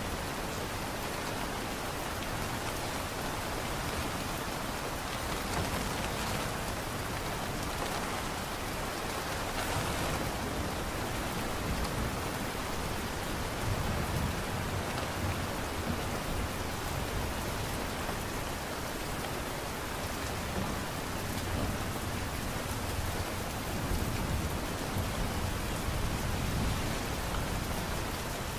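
Steady light rain: an even, soft hiss of falling rain, with low rumbling swells now and then.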